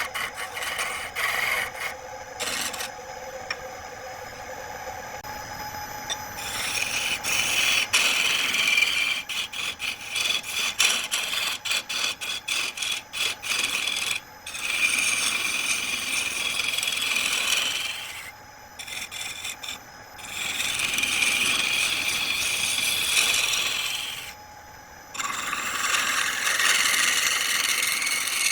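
A tool rubbing and scraping against wood as it is worked on a lathe, a steady rasping hiss that runs in long stretches broken by a few short pauses.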